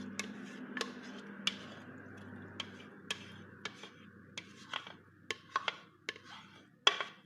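A utensil tapping and scraping against a dish as salad is spread out in it: a string of irregular sharp clicks, with the loudest two near the end.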